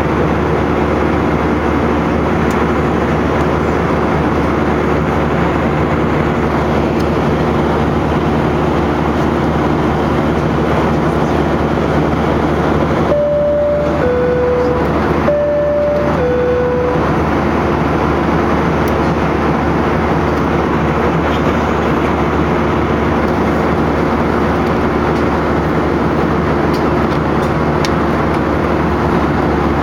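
Steady drone of an airplane cabin. About 13 seconds in, a two-note chime sounds high then low, and it repeats once.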